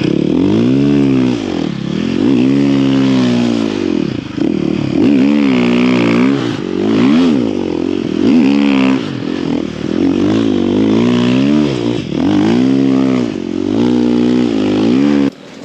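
Snow bike's engine revving up and down over and over as it powers through deep snow, the pitch climbing and falling about once a second, then dropping off sharply just before the end.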